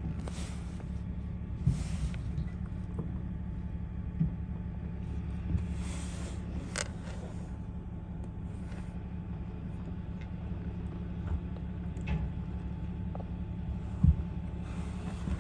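Front-load garbage truck's diesel engine running steadily with a low rumble, broken by several short hisses and a few sharp knocks.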